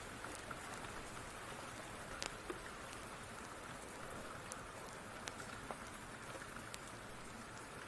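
Steady rain falling, with a few scattered sharp ticks.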